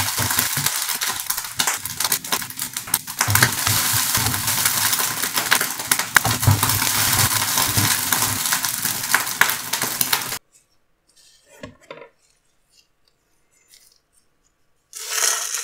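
Shredded pork carnitas sizzling in a frying pan while a plastic spatula stirs and scrapes them, a dense hiss full of small clicks. It cuts off suddenly about ten seconds in, leaving a few faint clicks, and near the end a spoon scrapes the meat out of the pan onto a plate.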